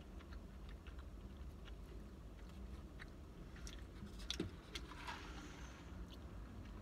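A person chewing and biting into a brisket sandwich on a soft bun close to the microphone: small wet mouth clicks, with a sharper bite about four seconds in and a short rustle just after. A low steady rumble lies underneath.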